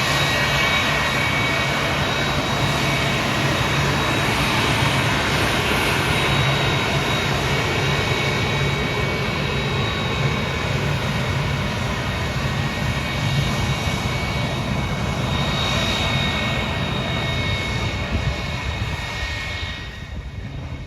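Jet truck's jet engine running at high power with a steady whine, blended with an aerobatic airplane's engine, as the two race; the noise drops off near the end.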